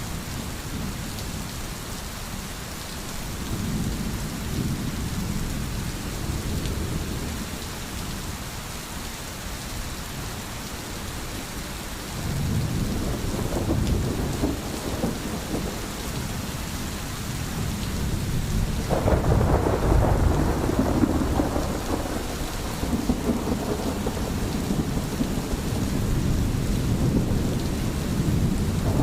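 Steady rain with rolling thunder: deep rumbles swell about halfway through, and the loudest, fullest rumble comes about two-thirds of the way in.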